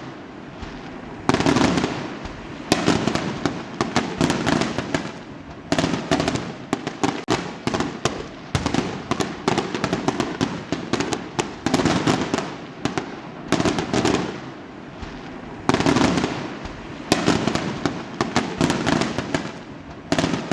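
Fireworks going off in a dense barrage: sharp bangs every second or two, a thick crackle of smaller reports between them.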